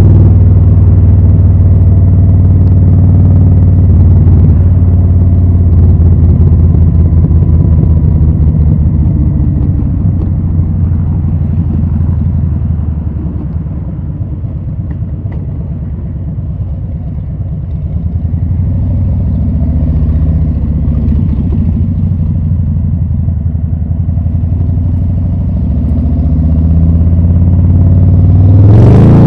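Harley-Davidson Low Rider S's Milwaukee-Eight 114 V-twin running through Rinehart slip-on mufflers with a deep, pulsing exhaust note. It eases off and gets quieter midway, builds again, then revs up sharply near the end.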